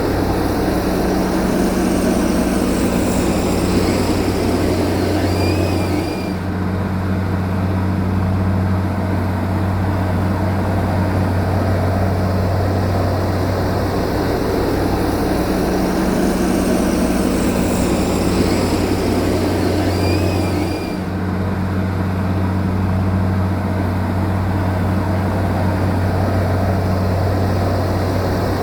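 Heavy diesel engine of earth-moving machinery running steadily with a deep, even hum. There is a short dip in level about six seconds in and again about twenty-one seconds in, where the same stretch of sound repeats like a loop.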